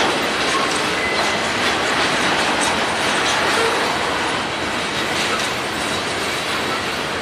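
Train cars rolling past on steel wheels, a steady rolling noise, with a couple of brief, faint wheel squeals.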